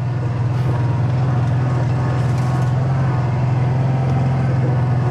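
Side-by-side UTV engine running steadily at a constant low speed with an even hum and no revving.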